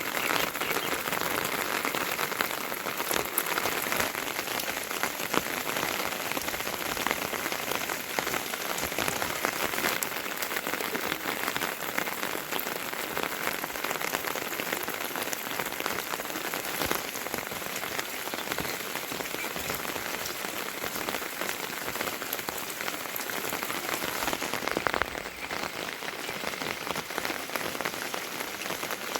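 Heavy rain falling steadily, a dense patter of drops, briefly louder a few seconds before the end.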